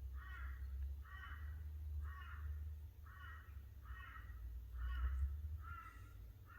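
A crow calling a slow, even series of about eight caws, a little under one a second.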